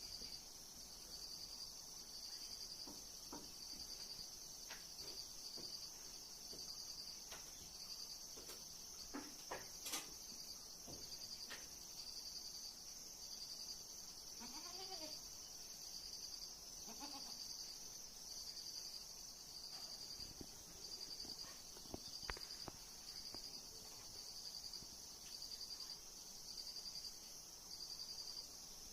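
A goat bleating twice, about halfway through, over the steady, evenly pulsed high chirping of crickets, with a few faint knocks.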